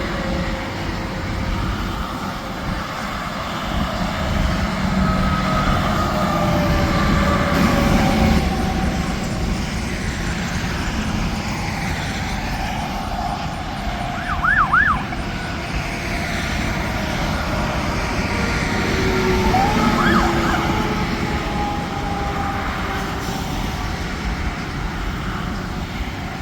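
Interstate traffic passing: a steady rush of tyres and engines, with several tones falling slowly in pitch as vehicles go by. A few short, quick chirps are heard about halfway through and again a few seconds later.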